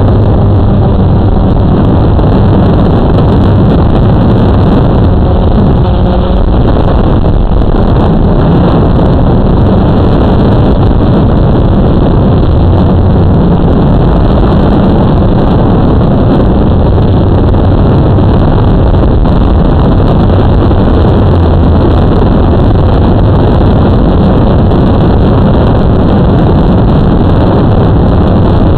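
Steady, loud rushing noise with a low hum that swells and eases, typical of a Blade 350 QX2 quadcopter's motors and propellers heard through heavy wind buffeting the microphone.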